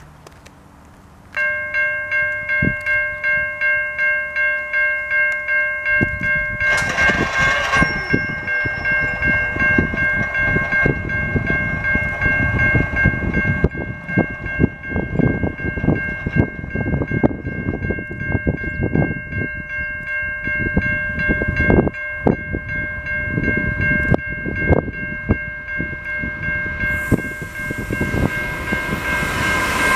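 A railway crossing warning bell starts ringing about a second in and keeps pulsing steadily, while a Canadian National freight train's diesel locomotives approach, their engine noise and wheel clicks growing until the train passes close and loud near the end.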